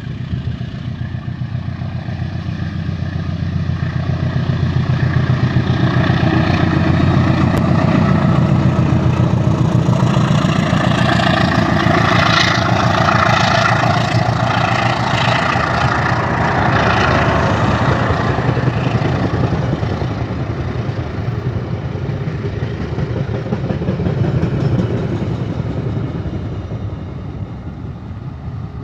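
Diesel locomotive engine running with a rapid, rumbling beat. It grows louder over the first several seconds, holds strong through the middle, and eases off somewhat near the end.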